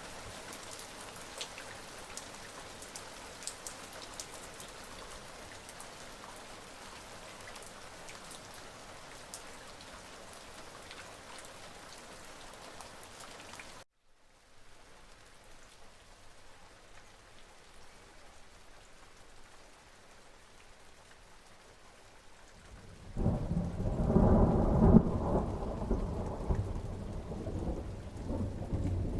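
Steady rain with the ticks of single drops, which cuts off suddenly about halfway and gives way to softer, quieter rain. About 23 s in, a loud peal of thunder breaks and rolls on in a long low rumble over the rain.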